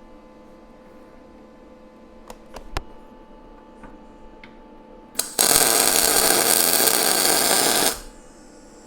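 A few light clicks of metal parts being handled, then an electric arc welder laying a tack weld on steel plate: a loud, even crackling for about two and a half seconds that stops abruptly.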